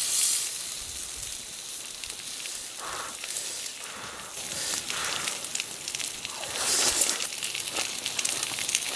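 Pork belly sizzling on a hot grill over a wood fire: a steady high hiss with fine crackles, swelling louder a few times.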